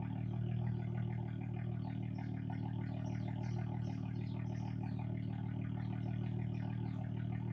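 Dodge Charger's V6 idling steadily through an aftermarket Big Boz exhaust, with guitar music playing over it.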